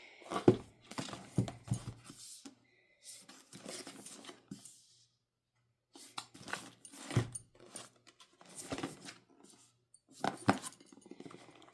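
Packaging and items being handled: scattered taps, knocks and rustles, with a brief pause about halfway through.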